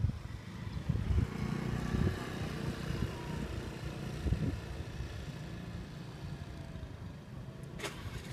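A motor vehicle's engine running nearby: a steady low rumble, with a few louder low knocks in the first half.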